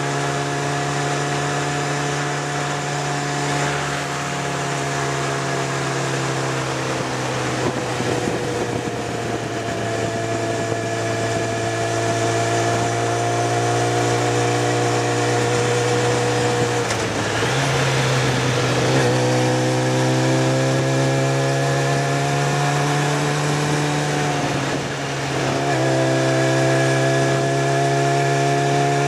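Motorcycle engine running at steady road speed, heard from the rider's seat with wind noise. Its note falls and climbs back up about halfway through, and dips briefly again near the end.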